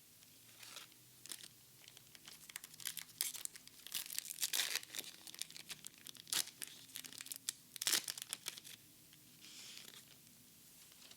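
Foil Pokémon card booster pack being torn open and crinkled: a run of sharp crackles and rips, loudest around the middle, dying away near the end.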